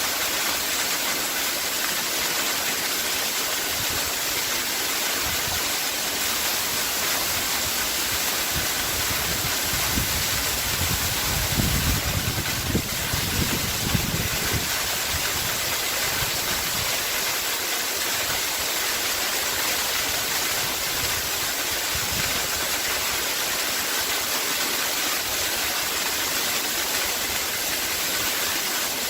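Waterfall cascading: a steady, even rush of falling water. About a third of the way through there is a few seconds of stronger low rumbling with a couple of louder swells.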